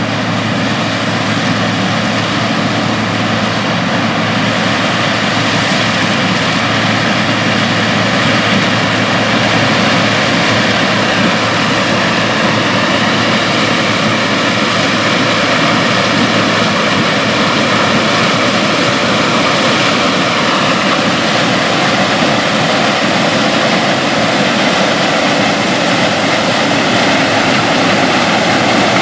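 Large farm machinery running steadily at work: an even mechanical drone with a steady engine hum and no change in pace.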